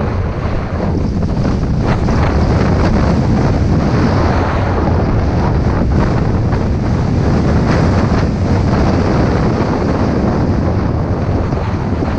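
Strong wind buffeting the microphone: a loud, steady low rumble and rush of air, as from a camera carried downhill on skis.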